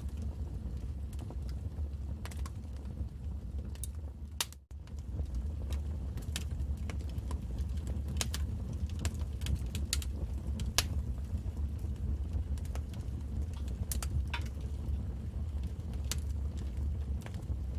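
Wood fire crackling, with irregular sharp pops and snaps over a steady low rumble. The sound cuts out for a split second about four and a half seconds in.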